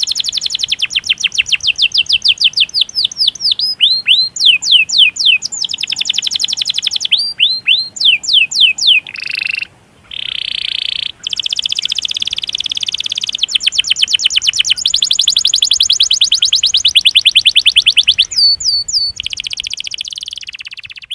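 Domestic canary singing long rapid rolls: runs of quick, repeated down-slurred high notes that change speed and pitch from phrase to phrase, with a brief break about ten seconds in.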